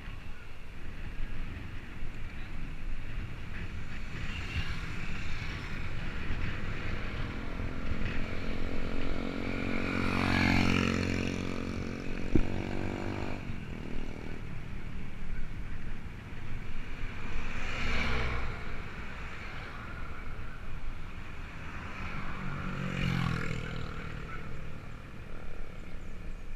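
Motor vehicles passing on the road over a steady rushing road noise. A loud one goes by about ten seconds in, its engine pitch dropping as it passes, and fainter ones go by near the middle and again about three quarters of the way through.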